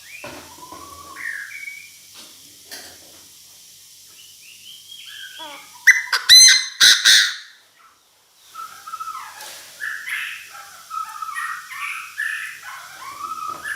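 Chinese francolin calling, the harsh repeated call of a decoy bird used to draw in a flock. A loud burst of calls comes about six seconds in, followed by a short break and then a run of quieter calls.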